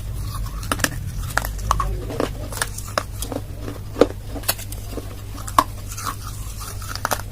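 Close-up crunching and chewing of dry baked clay: irregular sharp crunches and clicks, a few louder ones about four seconds in and again near five and a half seconds. A steady low hum runs underneath.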